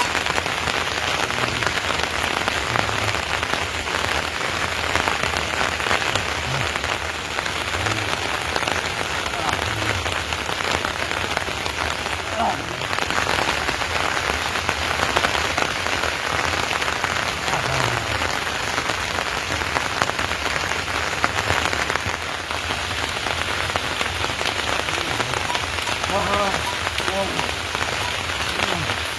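Steady rain falling, a dense, even patter of drops throughout.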